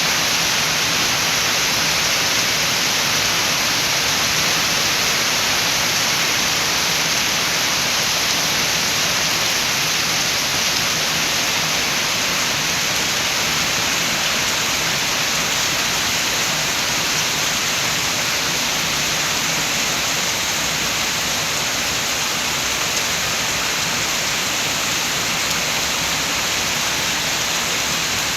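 Rain falling with wind: a steady, even hiss that neither rises nor breaks.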